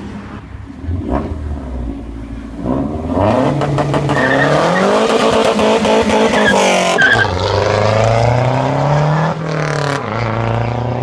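A car engine revving hard: its pitch climbs steeply a few seconds in, dips, climbs again, then falls away near the end.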